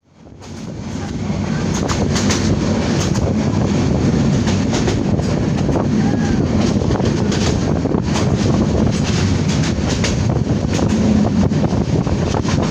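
Jamalpur Express passenger train on the move, heard from aboard: a steady rumble of wheels on the rails with scattered clatter and wind on the microphone, fading in over the first second or two.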